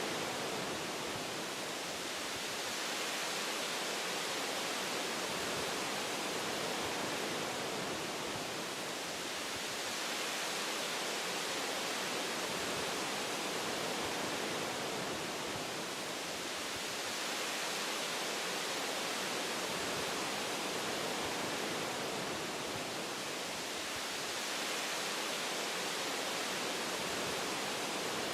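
Wind through tree branches, a steady rushing hiss that swells and eases gently every several seconds.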